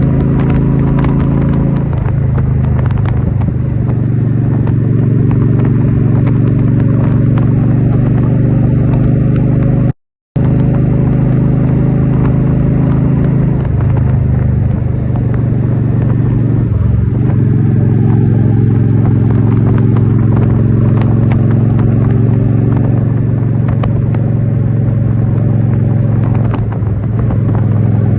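Honda Shadow 750's V-twin engine running steadily at road speed, its pitch dipping briefly a few times as the rider shifts or eases off the throttle. The sound cuts out for a moment about ten seconds in.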